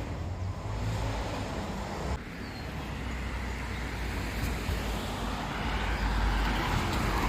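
Road traffic noise: a steady rumble of passing vehicles that grows louder toward the end.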